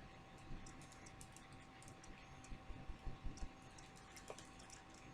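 Faint scattered clicks and ticks from makeup brushes and compacts being handled while eyeshadow is blended, with a few soft low knocks near the middle, over a faint steady tone.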